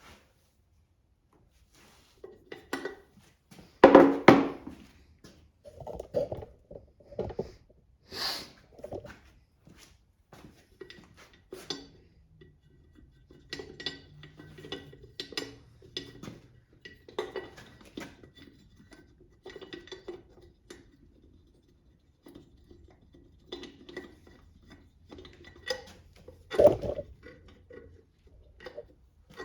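Metal engine parts and hand tools clinking, knocking and rattling against each other as a Kohler small engine is taken apart, in an irregular run of handling noises. The loudest clatter comes about four seconds in, and a sharp knock comes near the end.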